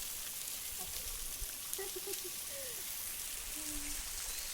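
Steady hiss of rushing water from a waterfall, even and unbroken, with a few faint, short pitched sounds mixed in.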